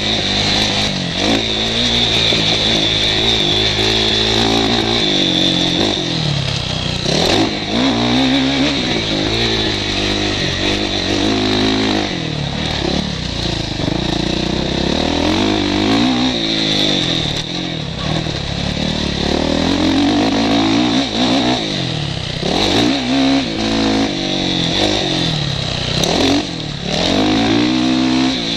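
Motocross bike engine heard from the rider's helmet, revving hard and backing off again and again as it is ridden round the track, with short drops in revs a few times. Wind rush on the helmet-mounted microphone runs under it.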